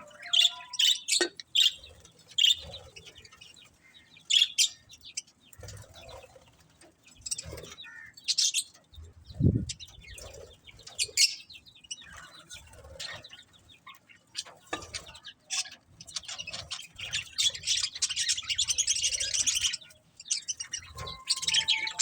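Budgerigars chirping and chattering in quick, short high calls, which thicken into a dense run of warbling chatter near the end.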